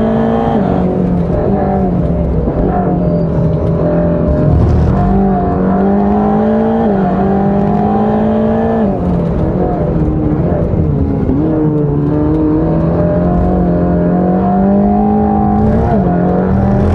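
Mercedes-AMG GT Black Series' twin-turbo V8 pulling hard on track. Its note climbs steadily in pitch through each gear and drops sharply at about half a dozen gear changes.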